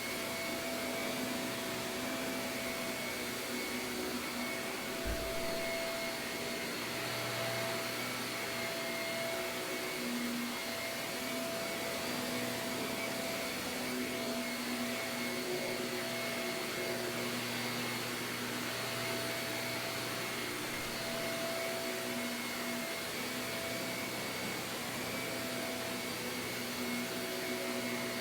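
Shark vacuum cleaner running steadily over carpet, an even motor whine and airflow hiss, with a brief low bump about five seconds in.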